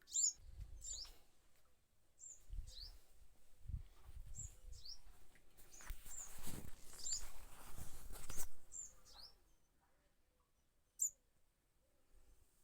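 A small bird giving short, high, downward-sliding chirps, one or two a second, which the speaker takes for a mother bird calling her fledgling up to safety. Rustling and handling bumps run underneath, loudest about six to eight seconds in. The chirps stop at about ten seconds, apart from one more shortly after.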